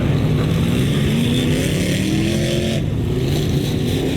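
Dirt-track race car engines running steadily, with one revving up in a rising pitch about halfway through that breaks off shortly after.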